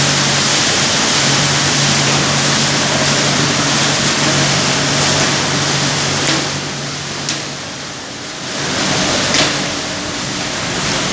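Automatic car wash machine running over a Toyota Hiace van: a steady rush of spraying water over a low motor hum. The rush eases off about six seconds in, and a few sharp knocks follow.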